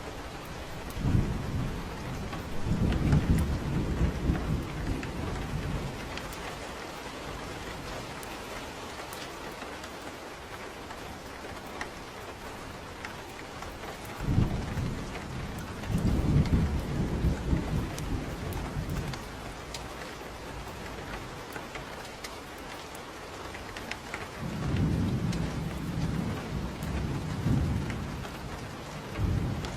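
Steady rain falling, with low rolls of thunder rumbling three times, each lasting several seconds.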